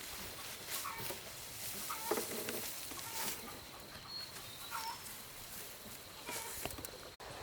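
Chickens clucking in short calls about once a second.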